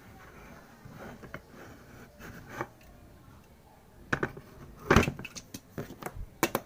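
Handling noise: faint rustling, then a run of irregular sharp clicks and knocks from about four seconds in, as of a hard object being picked up and set down.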